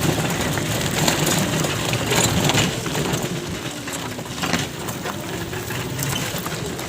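Road noise and uneven rattling clatter from a three-wheeled city safari rickshaw being driven.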